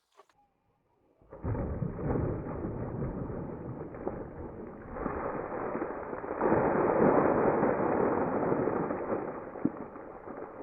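Wind buffeting the microphone: a loud, even rushing rumble that starts about a second in and swells twice, about five and six and a half seconds in, before easing off near the end.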